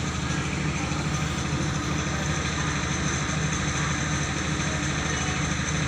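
Mobile rice milling machine running steadily, its engine giving a constant drone with a fast, even pulse under a rushing, hissing noise of the mill.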